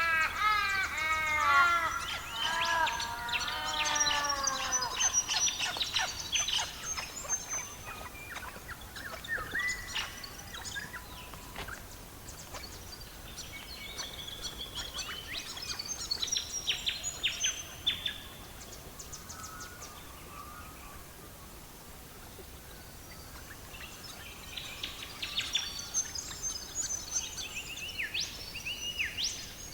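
Birds calling outdoors: a loud run of descending, harsh calls in the first few seconds, then several bursts of high chirps and trills later on.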